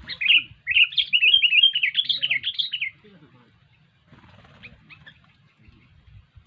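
Sooty-headed bulbul (kutilang) calling: one short note, then about two seconds of loud, rapid chattering notes, followed a little later by a few faint chirps.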